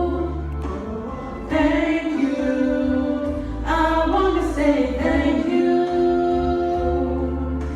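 Duet of two voices singing a slow worship song over a steady low accompaniment, holding long notes with new phrases about 1.5 and 3.7 seconds in.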